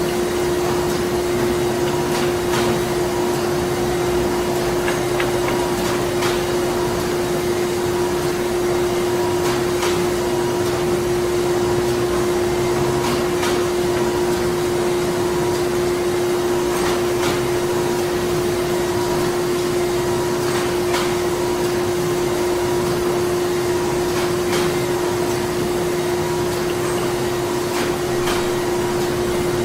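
Printing-plant machinery running steadily: a constant hum over a mechanical noise bed, with light clicks every second or two.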